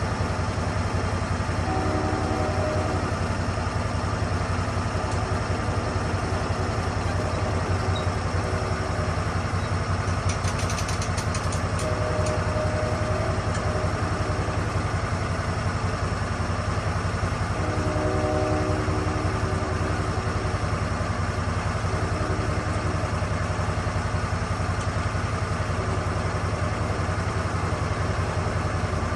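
Lucas Mill 10-30 swing-blade sawmill running steadily under power, with a higher whine that comes and goes a few times.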